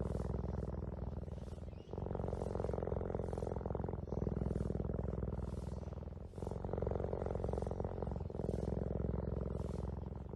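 Cat purring in a steady rhythm that swells and eases about every two seconds with each breath in and out.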